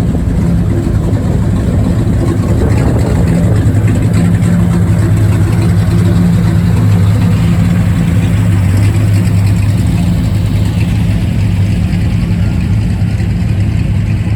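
A car engine running steadily, a low hum that swells through the middle and eases off again near the end.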